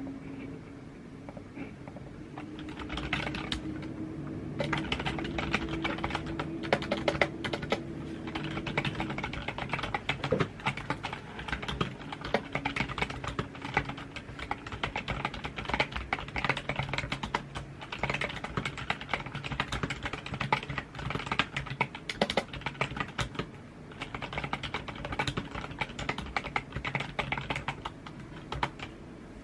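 Computer keyboard being typed on: a fast, continuous stream of key clicks that starts about three seconds in, breaks off for a moment near the end, then picks up again.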